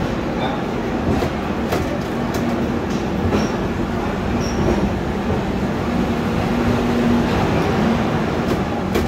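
AC Duronto Express passenger coaches running slowly through a station: a steady rumble of wheels on track with a low hum, scattered clicks over rail joints and a couple of brief faint wheel squeaks.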